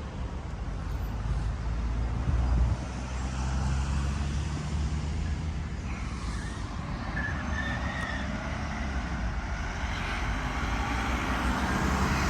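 Street traffic: a motor vehicle's engine running and passing with a steady low rumble, with a few short high squeals a little past the middle.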